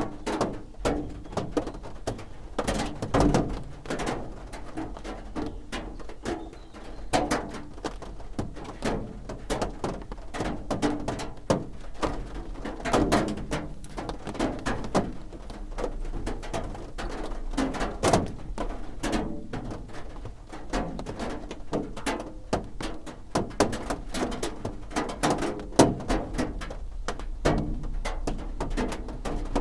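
Rain drumming on a roof: a dense, irregular patter of drop impacts, some hits louder than others.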